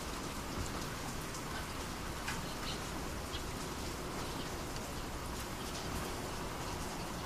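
Steady rainfall of the Japanese rainy season, a continuous wash of rain with scattered individual drops ticking on a surface.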